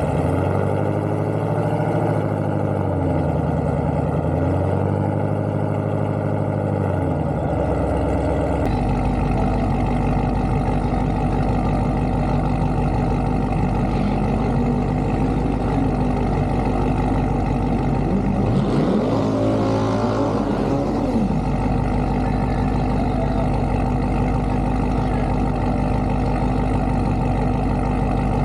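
Car engine revving up and down several times for the first eight seconds or so, then running steadily. About two-thirds of the way through, an engine sweeps up and then back down in pitch over a couple of seconds.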